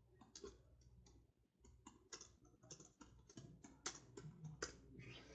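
Faint, irregular light clicks and taps, a dozen or more spread over a few seconds, with no steady rhythm.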